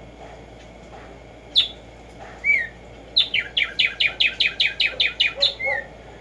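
Black-striped sparrow singing: two separate slurred notes, then a quick run of about a dozen repeated notes at roughly five a second, ending on a final slurred note.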